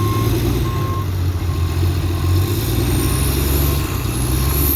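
John Deere log skidder's diesel engine running hard under load as it backs up pulling a tree out of the ground, its reversing alarm beeping about twice a second.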